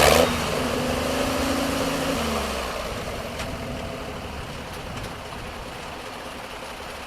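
A pulling tractor's gas engine is throttled back from full power right at the start. It runs lower for about two seconds, then fades out, leaving a faint steady background.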